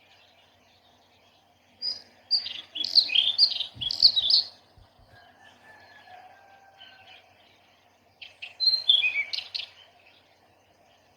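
Small garden birds chirping and twittering in two bursts of quick, high notes, the first about two seconds in and the second about eight seconds in, over faint background noise.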